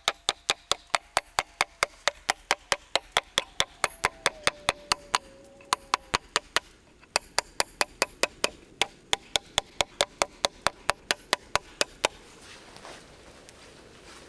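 Rapid, evenly spaced sharp knocks on wood, about four or five a second, pausing briefly about six and a half seconds in and stopping about twelve seconds in.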